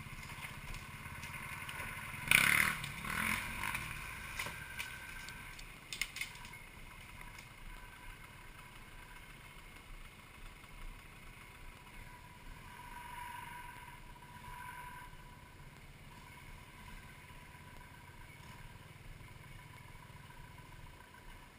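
Off-road vehicle engine running steadily, with a loud clattering burst about two seconds in and a few sharp knocks around six seconds.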